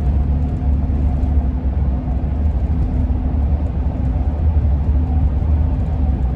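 Roof rack on a moving Ford E-350 van howling in the wind, a faint steady tone over the low rumble of the road and engine heard from inside the cab.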